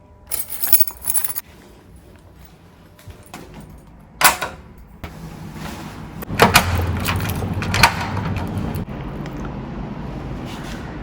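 Rail transit train running with a steady low rumble and clatter that grows louder about six seconds in. A few short hissing and rattling noises come before it.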